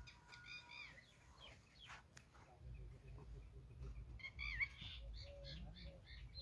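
Faint chirps of small birds, a few at a time near the start and again past the middle, over a low rumble that grows from about two and a half seconds in.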